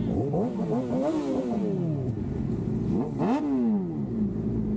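Sportbike engine revved twice: a stepped climb that peaks about a second in and falls away, then a sharp rev about three seconds in that dies back down. A steady engine idle hums underneath.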